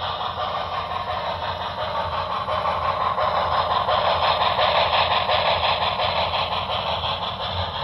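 HO scale model steam locomotive running, its onboard sound decoder playing a steady steam-engine running sound.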